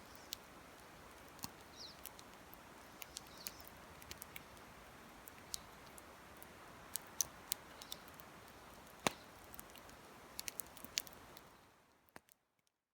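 Campfire crackling: a soft steady hiss with irregular sharp pops and snaps, fading out near the end.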